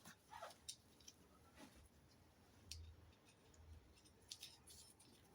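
Near silence with a few faint, scattered clicks of small metal nuts and screws being handled and refitted.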